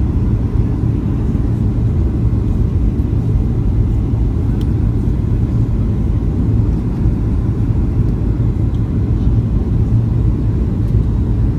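Steady low rumble of a Boeing 737-800 airliner in flight, its jet engines and airflow heard from inside the cabin.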